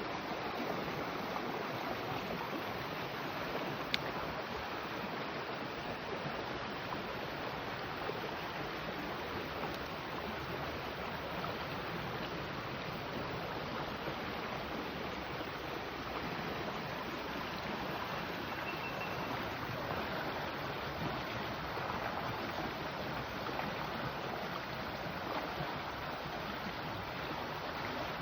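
Steady rush of flowing water from a creek or stream, even throughout, with a single sharp click about four seconds in.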